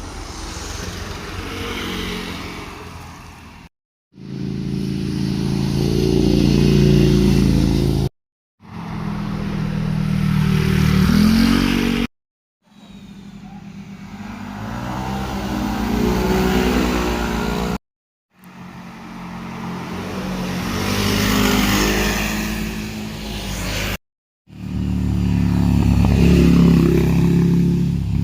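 Motorcycles passing one at a time, six in a row, each engine note swelling as the bike approaches and the pitch rising and falling with the revs. Each pass cuts off abruptly into a moment of silence before the next.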